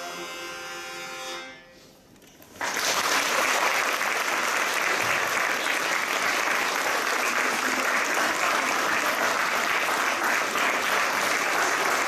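A held musical note fades out, and about two and a half seconds in, audience applause starts abruptly and carries on steadily.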